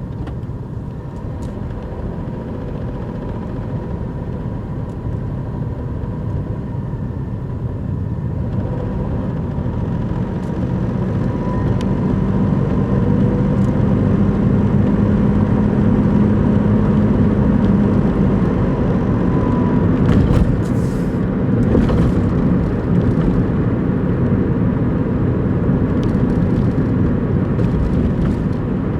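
Daihatsu Move Custom RS (L175S) running, a steady low engine and vehicle sound that grows louder a little under halfway through and then holds.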